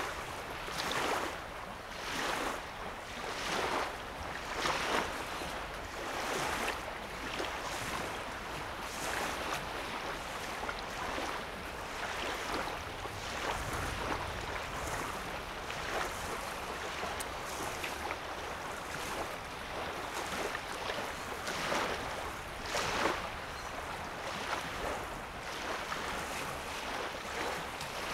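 Small lake waves lapping on a sandy shore, a soft wash coming every second or two.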